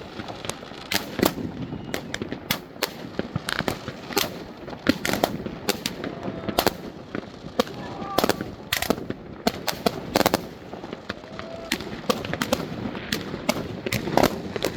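New Year fireworks going off, a dense, irregular run of sharp bangs and cracks, with crowd voices underneath.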